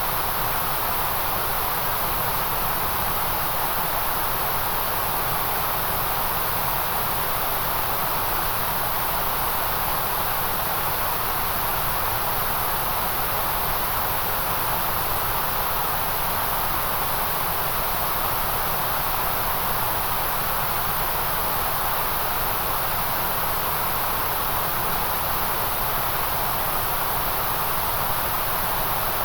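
Generated white noise: a steady, even hiss that does not change, strongest in its mid and highest registers.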